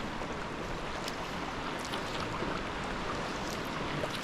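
Water splashing and sloshing around a sea kayak being paddled, with small drips and splashes from the paddle over a steady wash of water noise.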